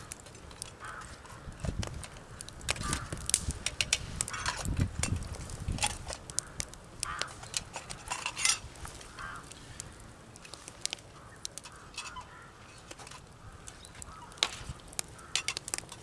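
Scattered clinks, scrapes and knocks of a metal spoon and pot being stirred and handled over a campfire.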